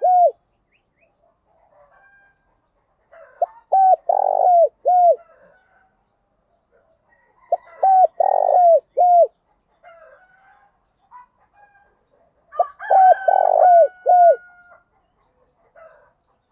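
Spotted dove cooing: three phrases about four seconds apart, each a few short coos around one longer, stronger coo.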